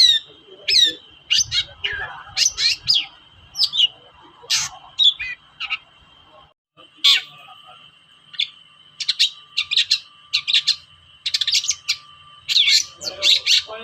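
Long-tailed shrike (cendet) singing: a rapid string of sharp, downward-sweeping chirps and harsh notes that breaks off briefly about six and a half seconds in, then resumes as a denser, faster chatter. A thin steady high tone runs underneath.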